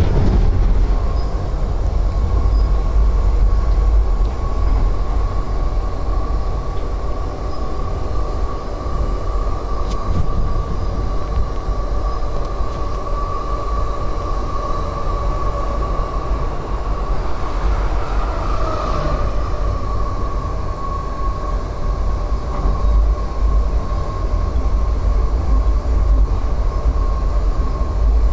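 Passenger train running: a steady low rumble with a steady whine. About two-thirds of the way through, a brief tone falls in pitch.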